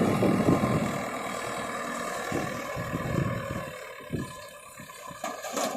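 Diesel engine of heavy machinery running steadily, growing gradually quieter.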